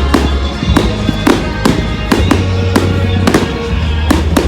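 Fireworks going off in quick succession, a string of sharp bangs and cracks about two or three a second.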